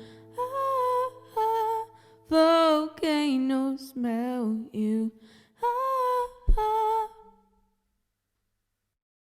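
A woman's voice humming a slow wordless melody in several short phrases, which stops about seven seconds in. A short low knock sounds just before the last phrase.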